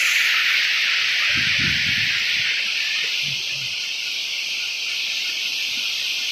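Heavy rain pouring down in a steady, dense hiss, with a brief faint low sound about a second and a half in.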